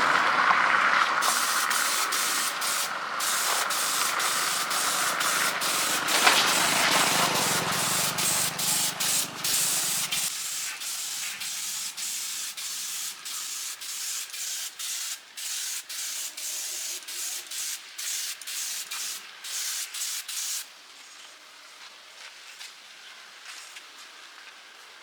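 Hissing spray, switched on and off in many short bursts, that stops abruptly about twenty seconds in, leaving only faint background noise.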